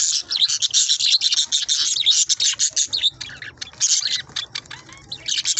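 A flock of budgerigars chattering, with many quick high chirps overlapping without a break.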